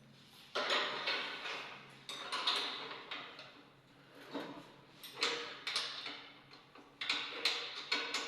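Manual treadmill parts clattering and knocking as they are worked on or moved. There are about ten separate knocks with rattling, sliding tails, coming every second or two and bunching closer together near the end.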